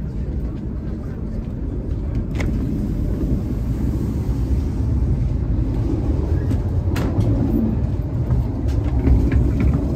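Passenger train in motion heard from inside: a steady low rumble that grows louder in the vestibule between carriages, with two sharp clicks.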